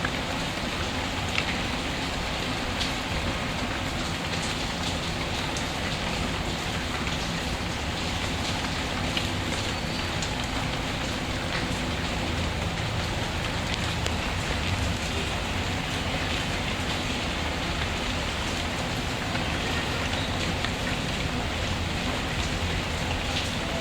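Steady rain falling, with scattered faint crackles and pops from a log fire.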